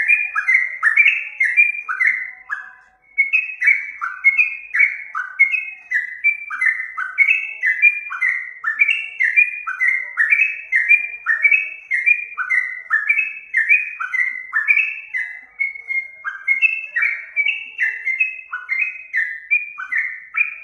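Sooty-headed bulbul (trucukan) singing continuously: a rapid, unbroken chain of short, clear, falling whistled notes, with a brief break about three seconds in.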